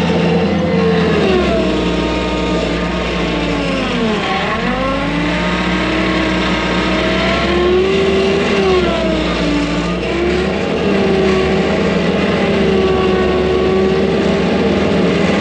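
Skid steer engine working under load. Its speed drops sharply and recovers about four seconds in, then rises and falls again a few seconds later.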